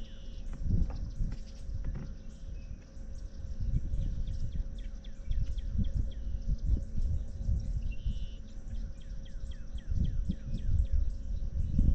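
A bird calling in a quick series of short, falling chirps, a few each second, over gusts of wind buffeting the microphone.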